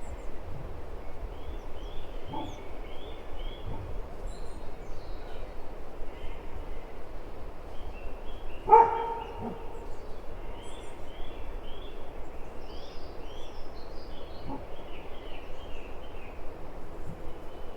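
A dog barks once, loud and short, about halfway through, with two much fainter barks before and after it. Small birds chirp repeatedly throughout over a steady background hiss.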